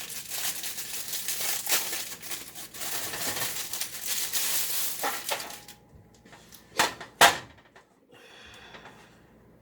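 Plastic wrapping crinkling and rustling as frozen pizzas are handled. The crinkling stops, and about a second later come two sharp knocks, like pizzas or a pan set down on a metal baking sheet.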